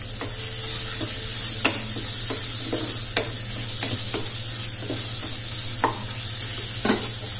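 Onion-tomato masala frying in ghee in a pan, sizzling steadily as it is stirred with a spoon. The spoon clicks sharply against the pan a few times.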